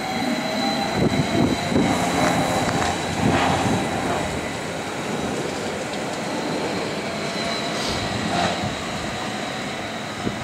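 A train running past, with a steady rushing noise and a thin high whine, and a few scattered knocks.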